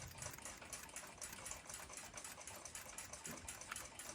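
Faint, fast, even mechanical ticking over low hiss.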